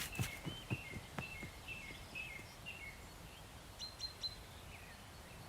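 Faint bird calls: short chirps that step down in pitch, repeated about twice a second, then a few higher chirps about four seconds in.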